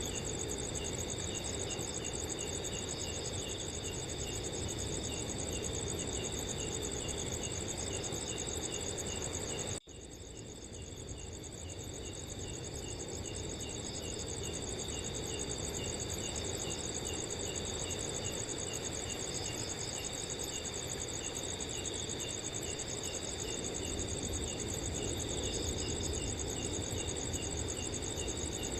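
Several crickets chirping and trilling steadily at different pitches, one of them chirping about twice a second, over a soft wind rush. Just under a third of the way in the sound cuts out for an instant, then fades back up over a few seconds.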